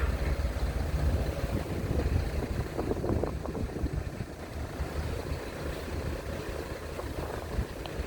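A ferry's engines running with a low steady rumble while the ship is held at the berth during mooring, with some wind noise.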